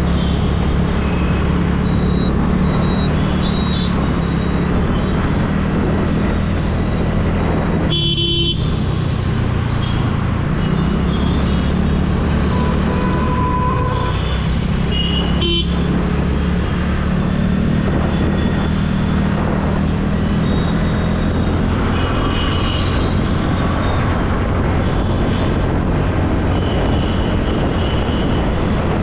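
TVS Ntorq scooter riding through city traffic: a steady low rumble of engine and wind, with other vehicles' horns tooting now and then. The rumble drops out briefly about eight seconds in.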